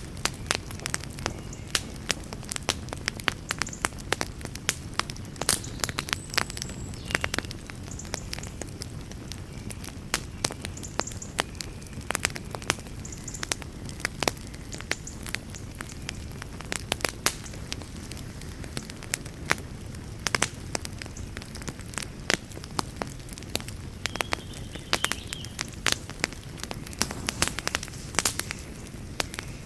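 Wood campfire crackling: dense, irregular sharp pops and snaps over a steady low rush.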